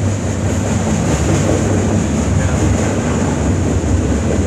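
Freight train cars rolling past on the rails: a steady, loud rumble of wheels on track, with a thin high hiss running over it.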